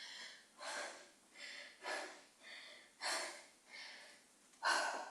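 A person breathing hard after exercise, with about eight quick breaths in and out and the out-breaths louder.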